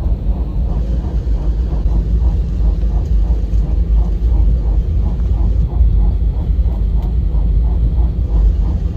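Steady low rumble of an Airbus A320-200 heard from inside the cabin, with a faint regular pulse about three times a second.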